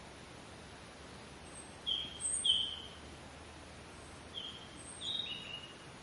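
A small bird chirping: two pairs of short, slightly falling high notes over a steady outdoor hiss.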